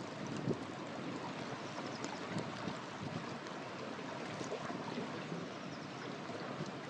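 River water rushing steadily, with a few sharp crackles and pops from a wood fire burning beside it.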